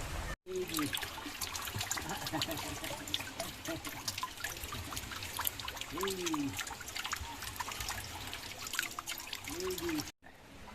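Seawater splashing and trickling with a dense patter of little crackles, and a few short rise-and-fall vocal sounds from a small child, one near the start, one about six seconds in and one near the end.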